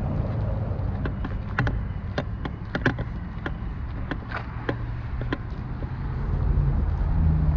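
A vehicle engine running with a steady low rumble that swells near the end, with scattered sharp clicks over it.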